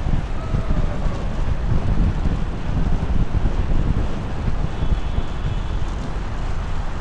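Wind buffeting the microphone during a bicycle ride, a steady low rumble that gusts up and down.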